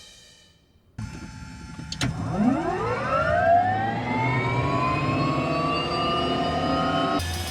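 Rolls-Royce Allison turbine engine of a Soloy-converted Cessna 206 starting up. A steady low hum begins about a second in, a sharp click follows about a second later, and then a whine rises steeply in pitch and levels off as the turbine spools up.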